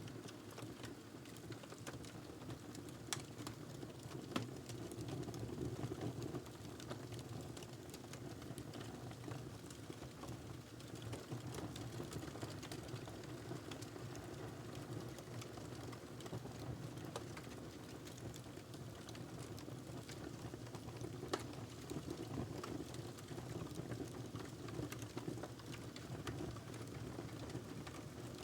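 Wood fire burning in a fireplace: a steady low rush of flame with scattered crackles and a few sharper pops.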